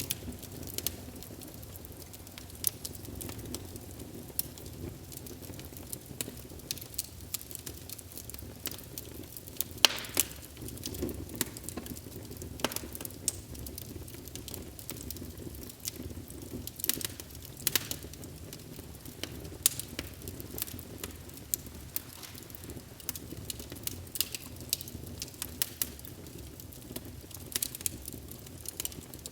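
Wood fire burning in a fireplace: a steady low rush of flame with frequent irregular pops and crackles from the burning logs, one sharp loud pop about ten seconds in.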